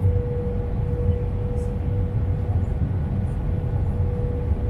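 Steady cabin noise inside an Airbus A320 airliner in flight: a low rumble of engines and airflow with a constant hum tone over it.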